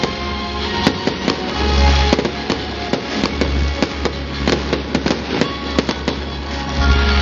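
Fireworks going off in a rapid run of cracks and bangs, several a second, with music playing throughout.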